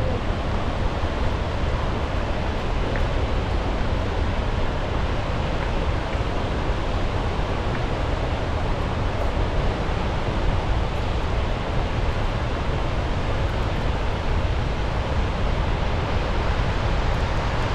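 Gullfoss waterfall, the Hvítá River plunging into its canyon: a constant loud rush of falling water with a deep low rumble.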